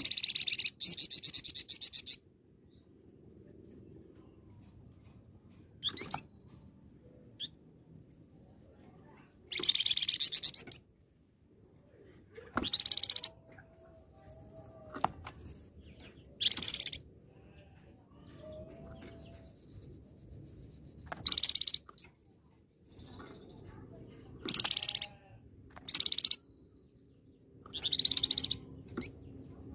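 A flamboyan songbird singing in short, loud bursts of high, sharp notes and fast trills, repeated every two to three seconds.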